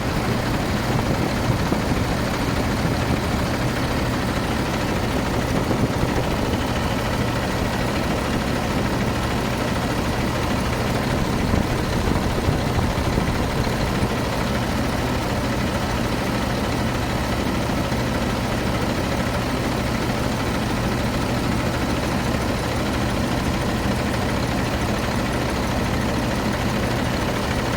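YaMZ-536 inline six-cylinder common-rail diesel engine idling steadily. The engine has excessive crankcase gas pressure (blow-by).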